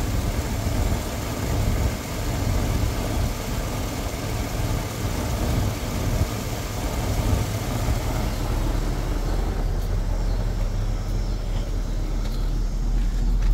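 1972 Lincoln Continental Mark IV's 460 V8 idling steadily, its power steering pump running without whine now that the reservoir has been filled. The low rumble grows fuller in the last few seconds.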